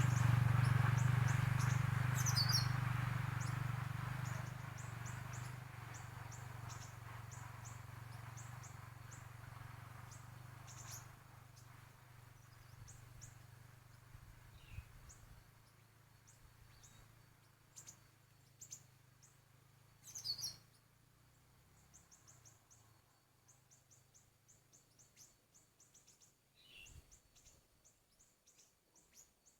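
Siri-siri birdsong: quick runs of short, high, thin chirps, with a few louder falling notes, used as the lure call for catching siri-siri birds. A low rumble fades away over the first several seconds.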